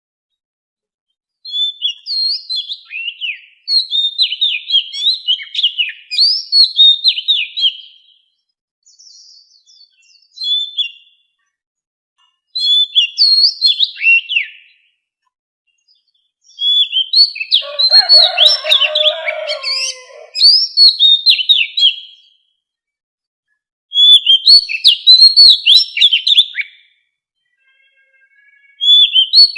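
Oriental magpie-robin singing: about seven phrases of quick, varied whistled notes and slurs, separated by short pauses. A lower sound sits under the longest phrase, just past the middle.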